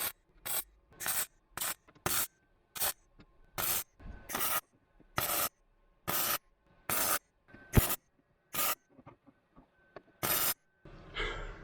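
Welding arc on a steel sill panel, fired in about fourteen short crackling bursts of under half a second each with brief pauses between, stitch-welding thin sheet metal a bit at a time. Near the end a different steady machine noise starts up.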